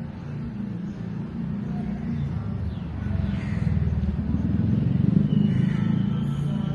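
A motor vehicle's engine running close by, a low rumble that grows louder about three seconds in.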